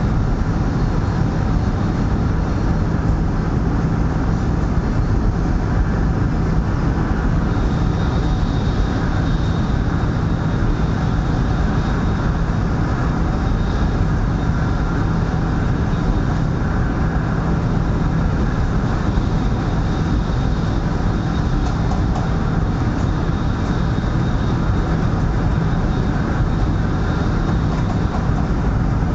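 Steady running noise inside a CRH380A high-speed train at speed: a continuous low rumble and rush from the wheels on the rails and the air along the car, with a faint thin high whine joining about eight seconds in.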